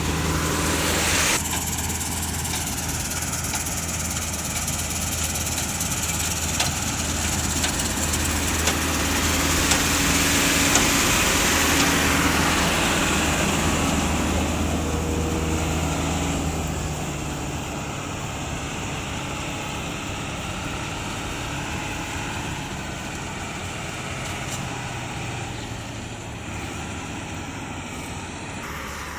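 Old combine harvester running, a steady engine drone under a rushing machine noise. The sound swells around ten seconds in, then drops to a lower, quieter note about seventeen seconds in.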